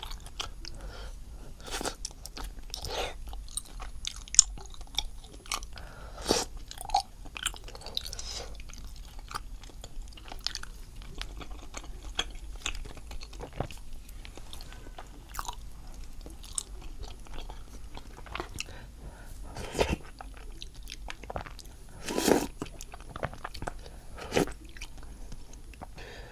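Close-miked eating sounds: a person chewing and biting food, with irregular short wet clicks and smacks scattered throughout and a few louder ones every few seconds.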